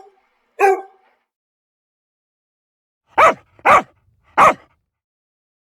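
A dog barking: two short barks in the first second, then after a pause of about two seconds three barks about half a second apart.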